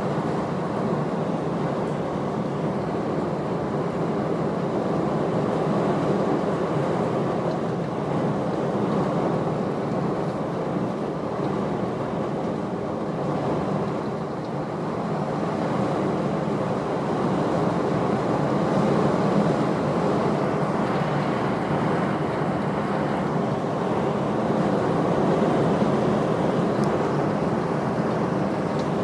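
Thunderstorm rain and wind: a steady rushing noise, without any sharp cracks.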